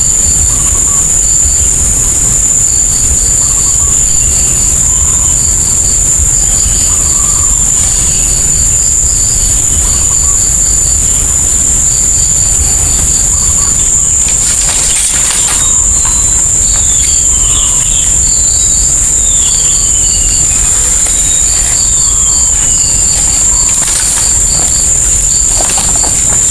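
Steady high-pitched insect drone with repeated short bird chirps in quick groups and a few falling whistled calls partway through, over a constant low rumble.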